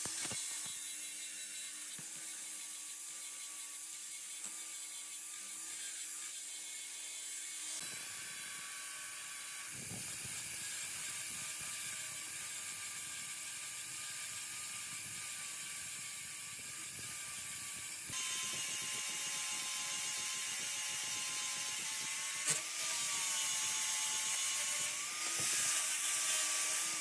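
A workshop machine tool running steadily: a whine with overtones over a high hiss, shifting in pitch and character a few times, with one short knock about three quarters of the way through.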